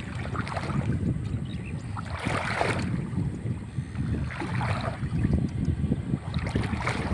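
Wind rumbling on the microphone with water splashing in three short bursts, typical of wading and working through shallow water.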